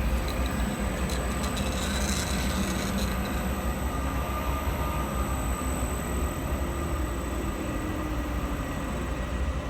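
Machine tool running steadily while cutting grooves into a slip ring: a continuous low hum under a noisy grinding hiss, with a faint steady high whine.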